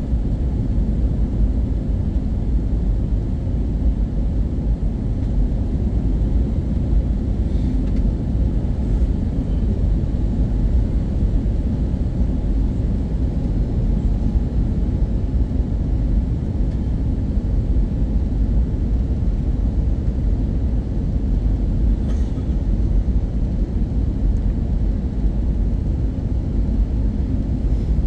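Steady low rumble of airflow and engines inside the cabin of an Airbus A320-232, heard from a front-row seat, with a few faint clicks.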